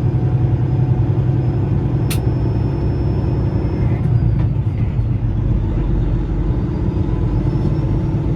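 Semi-truck engine running steadily with a low rumble, and one sharp click about two seconds in.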